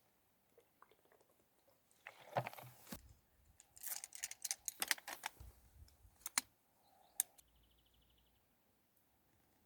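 Faint rustling and a run of small, irregular clicks, busiest from about two to six seconds in, with one sharper click a little later.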